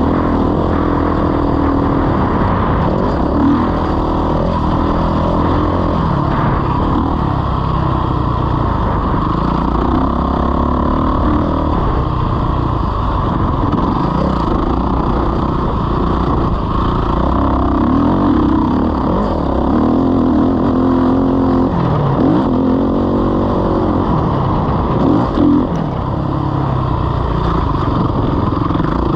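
Motocross bike engine running hard, its revs rising and falling again and again as it accelerates and shifts.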